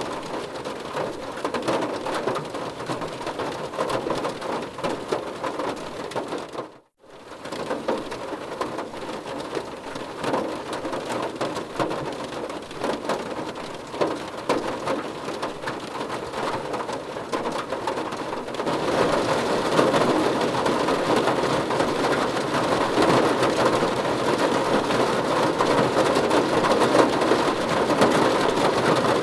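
Heavy rain falling steadily on a surface. About seven seconds in it fades out to near silence for a moment and comes back, and from about nineteen seconds in it is louder and denser.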